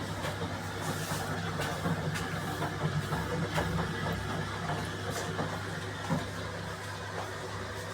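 A steady low machine hum with light clicks and knocks scattered through it.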